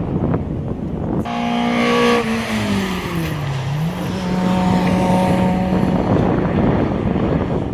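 Rally car engine running hard: it comes in suddenly and loud about a second in, its note sinks around the middle, then climbs back and holds steady at high revs.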